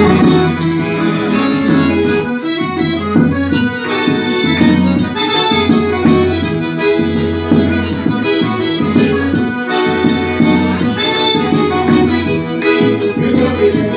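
Forró music led by an accordion, with percussion keeping a steady beat.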